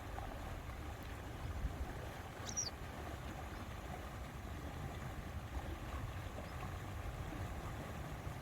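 Steady lakeside ambience: wind rumble with water lapping at the shore. One short high chirp about two and a half seconds in.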